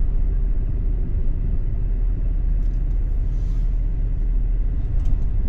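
Steady low rumble of a car driving, road and wind noise, with a few faint ticks about three seconds in and again near the end.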